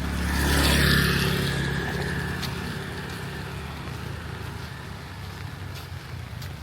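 A motor vehicle passes close on a wet road. Its engine hum and tyre hiss swell to a peak about a second in, then fade slowly, over steady rain.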